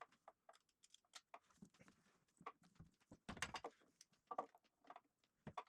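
Faint, irregular metallic clicks and knocks of hand tools working on transmission bell housing bolts, with a small flurry of clicks about three and a half seconds in.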